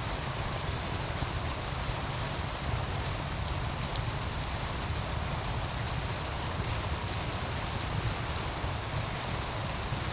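Meltwater stream rushing steadily, with occasional sharp crackles and pops from a wood fire and a low wind rumble underneath.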